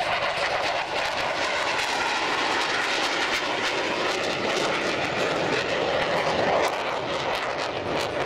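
Airplane engine noise of an aircraft in flight, fairly steady and loud throughout.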